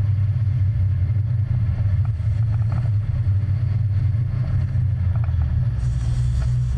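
A steady low rumble, continuous and unchanging.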